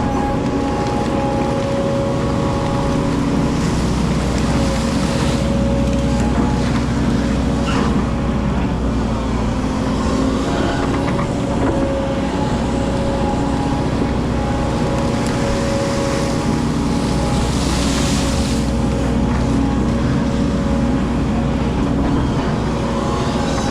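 Hydraulic excavator's diesel engine running steadily at working speed, with a constant hum and rumble. Brief hissy swells rise over it about five seconds in and again near eighteen seconds.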